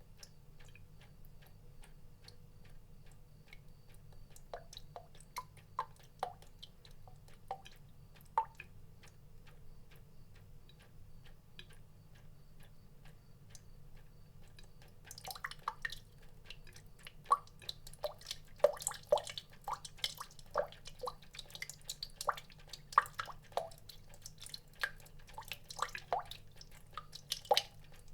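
Water drops dripping into water: a scatter of small plinks, sparse and quiet at first, then quicker and louder from about halfway through. A faint low hum runs underneath.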